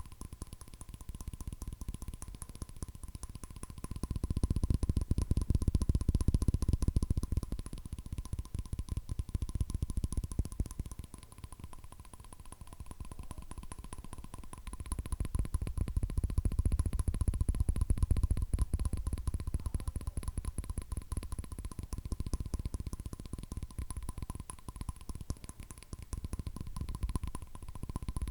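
Rapid fingernail tapping on a hard object, a fast run of taps too quick to count, with deeper, fuller taps that swell louder twice for several seconds.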